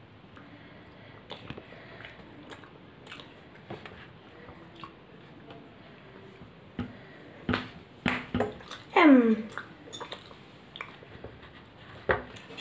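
A child chewing paratha and soybean curry: soft mouth and chewing sounds with small scattered clicks. From about seven and a half seconds in there is a louder cluster of clicks and knocks, with a short, loud sound that falls steeply in pitch at about nine seconds.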